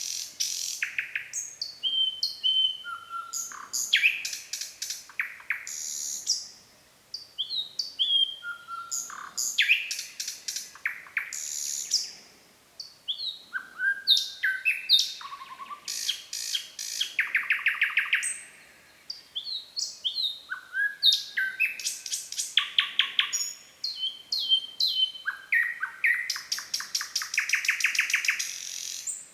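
Nightingale singing: a run of varied phrases built from fast trills of repeated notes and short clear whistles, with brief pauses between phrases.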